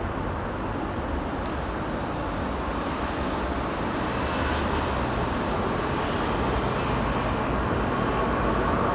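Airbus A321-231 on final approach, the jet noise of its IAE V2500 turbofans a steady rumble that grows gradually louder as it nears.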